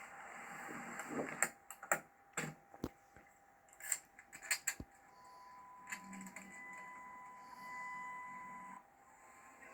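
Several sharp clicks and knocks from handling inside the vehicle, then a steady electronic tone for about four seconds that cuts off suddenly.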